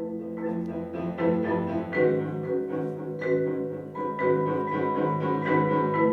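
Mallet percussion music: struck notes that ring on and overlap, building into sustained chords, with a new high note entering about four seconds in and ringing on.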